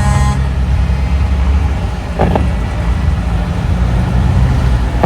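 Heavy diesel trucks rumbling low and steady as they roll past in a convoy. A brief horn blast sounds about two seconds in.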